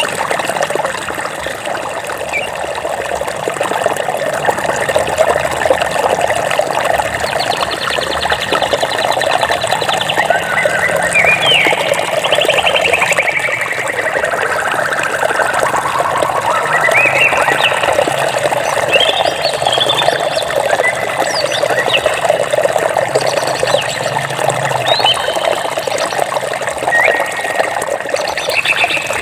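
Water running steadily, as in a stream, with birds chirping over it. About a third of the way in there is a rapid trill, then a second trill that slides down in pitch; short upward chirps follow later.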